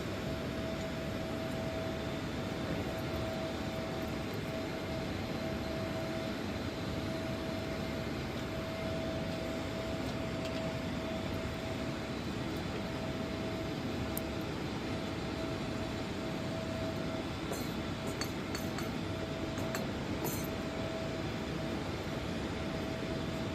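Steady mechanical background hum with one constant tone, and a few faint light clinks of small metal parts being handled a few seconds before the end.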